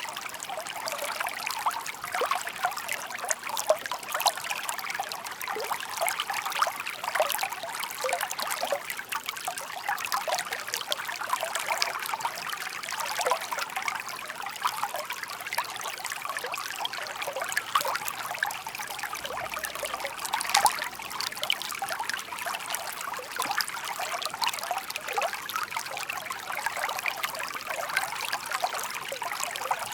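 Shallow park brook murmuring and trickling steadily, a dense run of small splashes and gurgles with no let-up.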